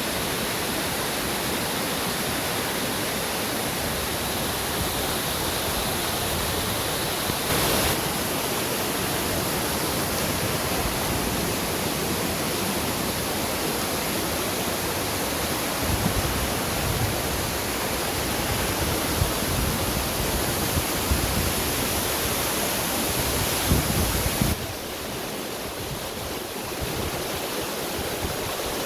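A waterfall rushing: a steady, loud wash of water noise that drops a little in level near the end.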